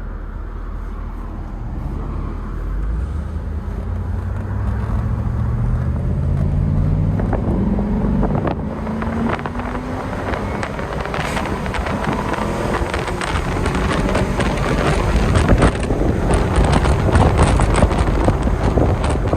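Mercedes-Benz 560SL's 5.6-litre V8 accelerating, its pitch rising over several seconds, then wind and road noise building as speed rises, with gusts buffeting the microphone.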